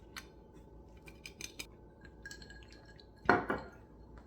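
A fork clinking and scraping on a plate, several light clicks with brief ringing. About three seconds in there is a louder, duller knock.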